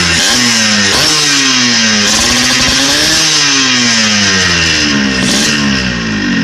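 Motorcycle with an LJR aftermarket racing exhaust being revved: a few quick throttle blips, then a slower rev that climbs and falls back toward idle.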